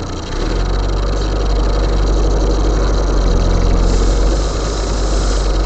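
Car engine running at low speed, heard from inside the cabin with road noise: a steady low drone that gets louder about half a second in and holds.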